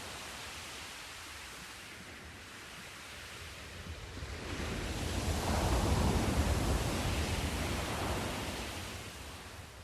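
Sea surf: after a quieter lull, a wave swells about four seconds in, breaks and washes up, then draws back and fades near the end.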